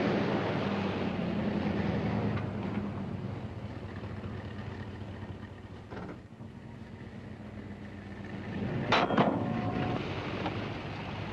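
Chevy pickup's 350 cubic inch V8 running under heavy load as it tows a Boeing 747. The steady drone is strongest in the first couple of seconds and then fades, and a couple of sharp knocks come about nine seconds in.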